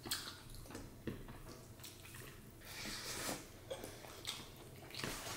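Wet eating sounds: chewing and squishing of a mouthful of dal and rice, with scattered small smacks and clicks.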